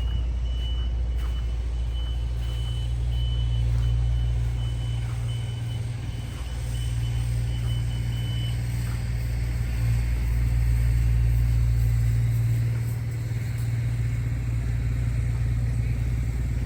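A heavy vehicle's engine running with a low, steady rumble, while a reversing alarm beeps at an even pace and stops about eight and a half seconds in.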